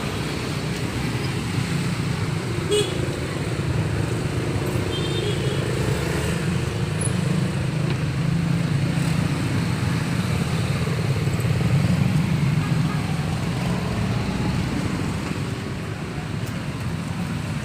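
Road traffic passing close by: a steady low rumble of engines and tyres that swells to its loudest about twelve seconds in and then eases off.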